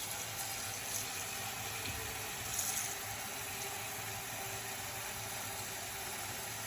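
Tap water running into a cooking pot, filling it, with a brief louder splash about two and a half seconds in.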